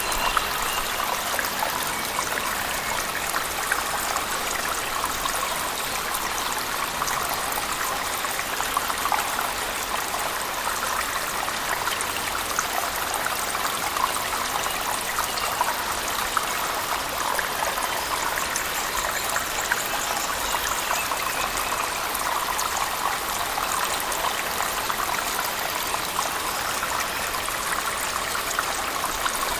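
Waterfall falling in a cave mixed with heavy rain: a steady, even rush of water, dense with fine splashes and drips.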